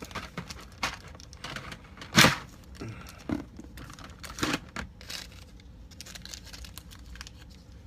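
Hands being pulled off and swapped on a plastic sixth-scale action figure: scattered clicks and rustling, the loudest a sharp snap about two seconds in.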